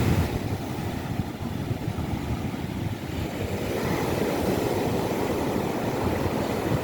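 Rough sea surf breaking and washing on a beach: a continuous deep rush of water that swells a little about three seconds in.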